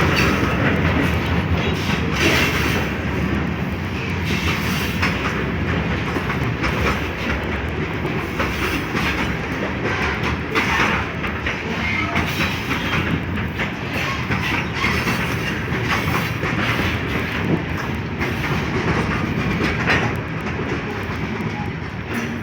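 Freight train cars rolling past, their wheels clacking steadily over the rail joints, fading a little near the end.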